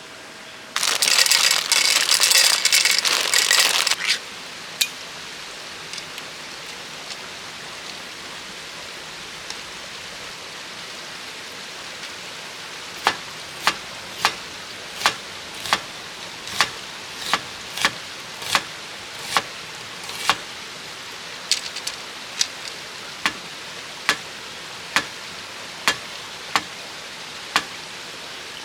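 Steady rushing of a stream. A loud hissing burst lasts about three seconds near the start, and in the second half a run of sharp, evenly spaced taps comes at a little over one a second.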